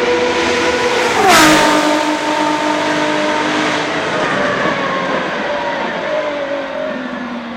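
Aston Martin AMR-One LMP1 race car's turbocharged inline-six engine passing at speed. Its note climbs, then drops sharply with a rush of hiss as it goes by about a second in, and sinks slowly as the car pulls away.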